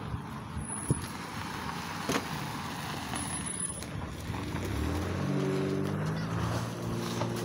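Motor vehicle engine running nearby. It comes in about two-thirds of the way through, rises briefly in pitch, then holds a steady hum over outdoor background noise.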